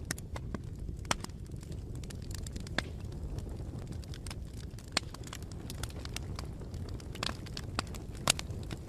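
Campfire burning with a steady low rumble and irregular sharp crackles and pops, one louder pop near the end.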